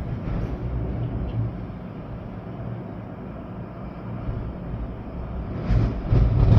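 Gusty storm wind with rain, the wind buffeting the microphone with a deep rumble that eases through the middle and swells again in a strong gust near the end.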